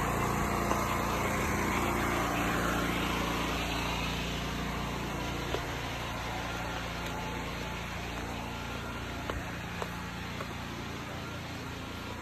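Engine running steadily, with a few sharp clicks or knocks in the second half.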